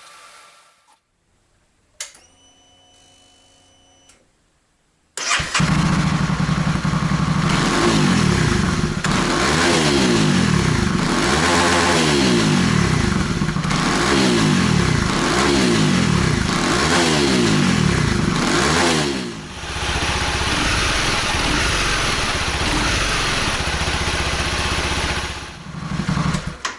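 Honda CBR250R's single-cylinder engine breathing through a Kawasaki ZX-25R muffler: a short electrical whine, then the engine fires about five seconds in. It is blipped up and down about a dozen times, settles to a steady idle, and is revved once more briefly near the end.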